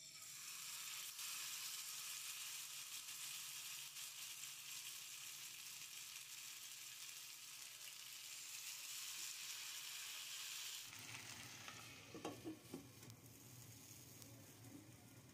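Marinated chicken leg pieces frying in oil in a nonstick pan: a steady sizzle. About eleven seconds in it drops abruptly to a quieter sizzle with a few light knocks, the pan now covered with its lid.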